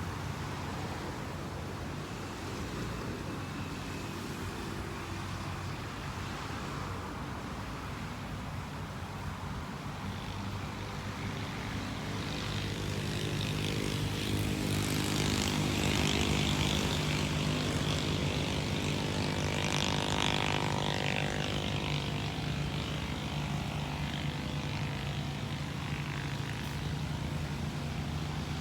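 An engine drone passing by: it swells over several seconds, and its pitch falls as it goes past, over a steady low rumble.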